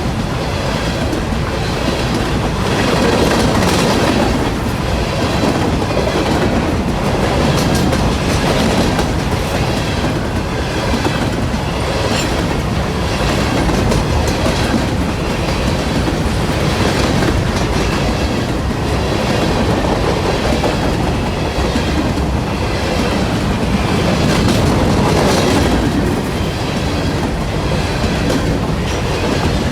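Norfolk Southern train's cars rolling past steadily, their wheels clicking over the rail joints.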